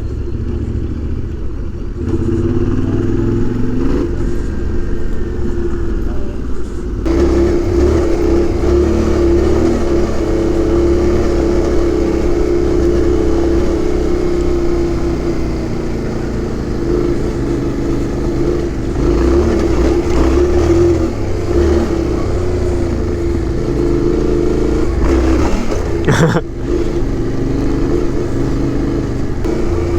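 Yamaha Ténéré 700 parallel-twin engine running while riding, its pitch rising and falling with the throttle over a low rumble. There is a sharp knock near the end.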